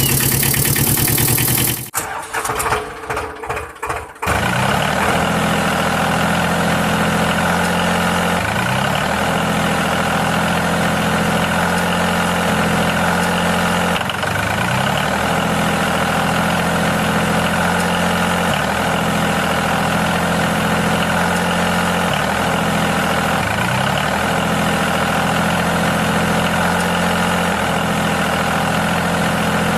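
Tractor engine starting: a loud rushing noise for about two seconds, then uneven sputtering until it catches about four seconds in. It then runs steadily, its pitch rising briefly every few seconds.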